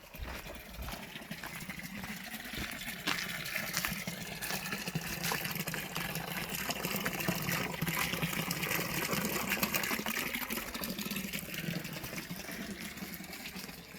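Running water splashing and gushing, with many small splashes, getting louder toward the middle and easing off near the end.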